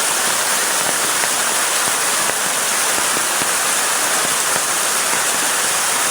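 Heavy rain falling steadily: a dense, even hiss with many individual drop hits close by.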